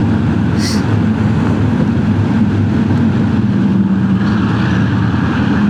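BMW R1250GS's boxer-twin engine running at a steady cruise, with wind and road noise from riding through a road tunnel.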